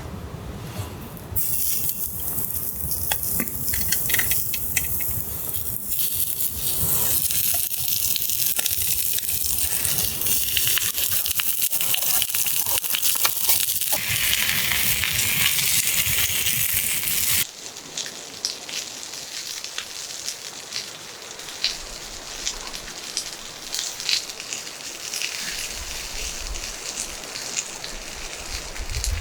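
Campfire sizzling and hissing, with a steady high hiss that changes abruptly about two-thirds of the way through to quieter crackling with scattered sharp pops.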